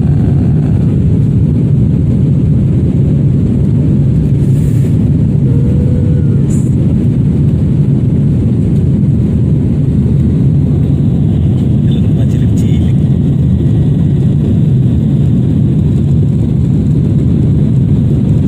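Steady, loud cabin noise of an airliner in flight just after takeoff: the drone of the engines and the rush of air, heard from a passenger seat.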